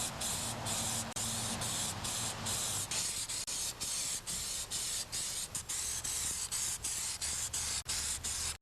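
Spray paint hissing in quick repeated bursts with brief breaks between them, as a coat of paint goes onto the tractor's sheet-metal panels.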